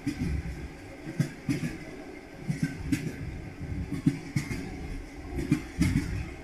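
Train wheels clattering over rail joints: double knocks (clickety-clack) repeating about every one and a half seconds, over a steady low rumble.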